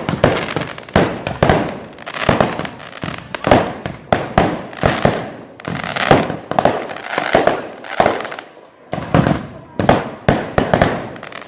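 Fireworks going off in a rapid, uneven series of loud bangs, roughly two a second, each trailing away, with a brief lull about eight seconds in.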